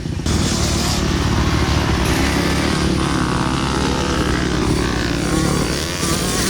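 Dirt bike engine revving at speed, its pitch rising and falling.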